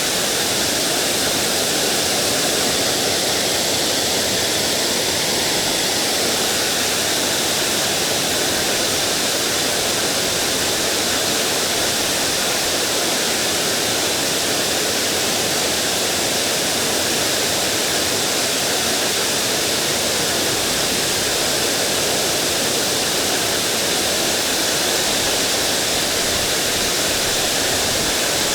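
Mountain stream water rushing, a steady, even hiss.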